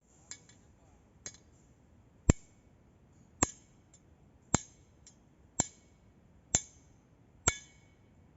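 Hammer blows on metal, eight strikes about a second apart, the first two lighter, each with a short metallic ring.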